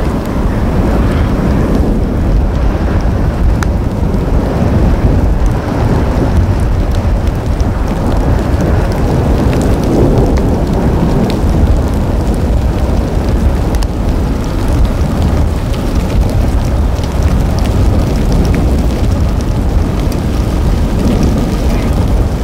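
Thunderstorm: steady heavy rain with a continuous low rumble beneath it and scattered sharp ticks of drops.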